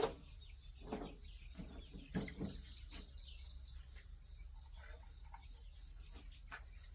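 Steady high-pitched insect chorus, with a few faint knocks about one and two seconds in.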